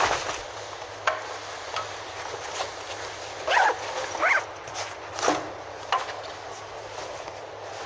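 A gull gives short calls, two rising-and-falling cries about a second apart midway, then a third shorter one. Underneath is a steady outdoor background rush, with a few sharp clicks.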